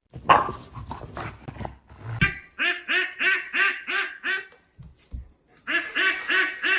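A duck quacking in quick runs of evenly spaced quacks, about four a second: one run starts about two seconds in and a second run starts near the end. Before the first run there are irregular rustles and knocks.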